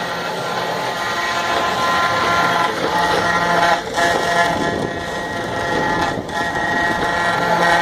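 CNC router spindle running and milling wood: a steady high whine with a low hum under it, dipping briefly twice.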